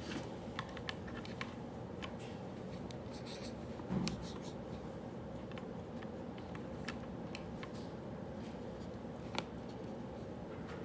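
Pen scratching on paper, with scattered small taps and clicks and one soft thump about four seconds in, over a steady low room hum.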